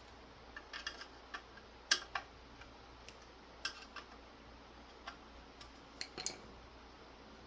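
Irregular light clicks and taps of small hardware being handled, such as screws and fan parts. The sharpest click comes about two seconds in, and a quick cluster follows just after six seconds.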